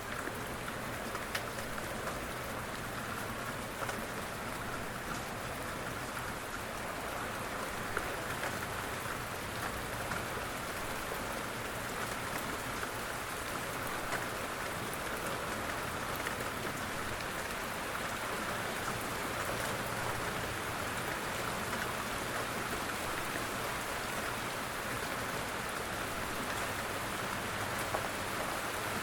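Steady rain falling, an even hiss with faint drop ticks, and a low hum underneath.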